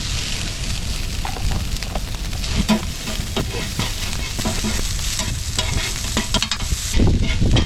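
Food frying in a hot pan: a steady sizzle with scattered sharp clicks throughout.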